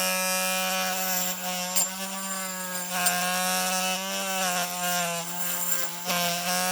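Small rotary tool spinning a steel wire brush against the die-cast metal body to strip off paint: a steady motor hum with a scrubbing hiss on top. The pitch sags slightly now and then as the brush is pressed into the work.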